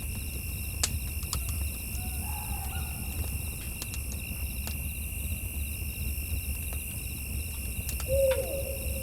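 An owl hooting twice. The second call, near the end, is the loudest and is held for about a second. Behind it runs a steady high insect chirring, with sharp crackles of a campfire scattered through.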